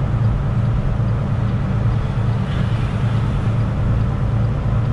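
Semi truck's diesel engine and road noise, a steady low drone heard inside the cab while driving at speed.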